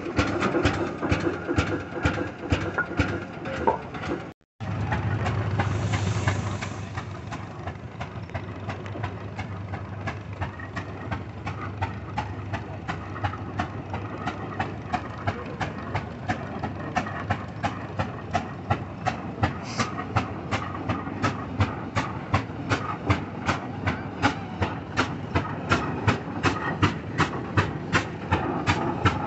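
Antique engine running at a slow, steady speed, its exhaust giving even, sharp beats at about two to three a second. There is a brief break about four seconds in.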